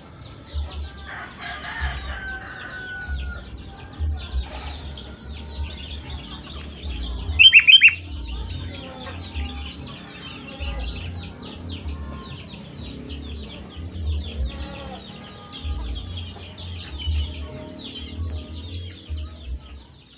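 Birds chattering: a steady stream of rapid, high, falling chirps, with a short loud burst of three or four calls about seven and a half seconds in.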